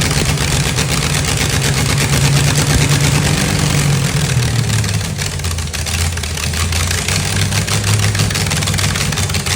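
Freshly tuned car engine running steadily at idle; its speed drops about four seconds in and it settles into a lower, even idle.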